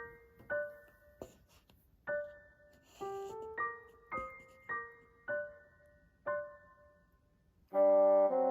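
Background music: single piano notes played one at a time, each ringing and fading, then a loud held chord comes in near the end.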